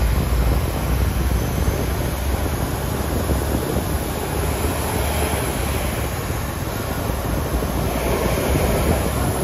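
PESA Link diesel multiple unit running as it pulls out of a station: a steady rumble and rush of train noise, heaviest in the low end and growing slightly louder.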